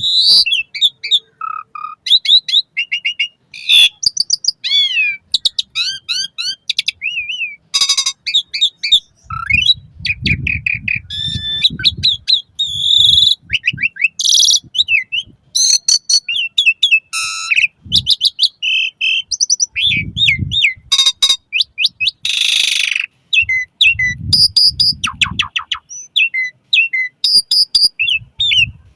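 Asian pied starling (jalak suren) singing a rapid, varied song of whistled notes, rising and falling glides and chattering trills, broken by harsh screeching calls. Several low, noisy bursts sound beneath the song.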